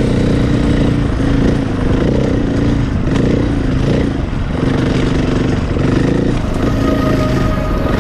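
Dirt bike engines running under load while riding, the engine note rising and falling with throttle and gear changes.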